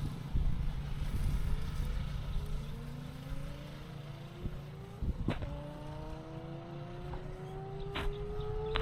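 Motorcycle engine heard from the rider's seat, its pitch rising slowly and steadily as the bike accelerates through a gear, over a low rumble and rushing wind, with a couple of brief clicks.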